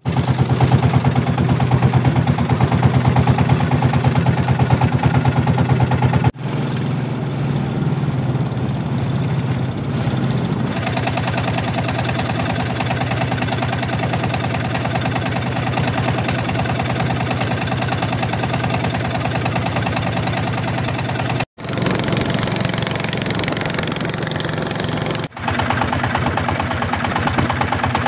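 Small boat's engine running steadily at a constant speed, cut off abruptly and resuming three times.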